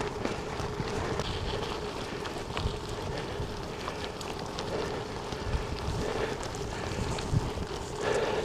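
Gravel bike tyres rolling over a gravel road, a steady crunch with scattered small clicks of loose stones, mixed with wind noise on the microphone.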